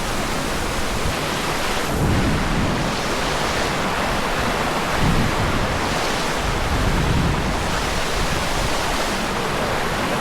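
Steady rush of falling water from a waterfall, with a few low buffets of wind on the microphone.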